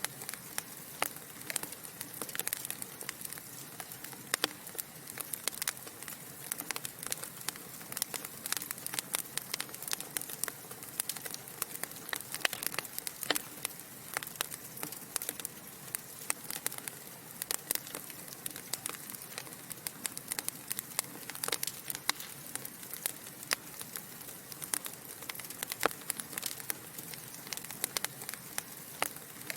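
Logs burning in a fireplace, crackling: frequent, irregular sharp pops and snaps over a soft steady hiss.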